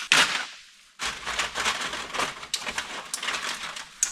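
Crinkling and clattering of empty aluminium drink cans in a plastic bag being handled: a sharp rattle at the start, then after about a second of quiet a dense run of small clicks and crackles that lasts about three seconds.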